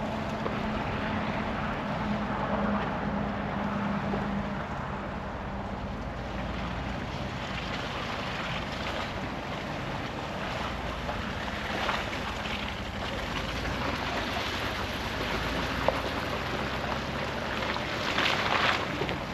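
A vehicle driving slowly over a rough road: engine running under a steady wash of road and wind noise, with a few brief louder rattles near the end.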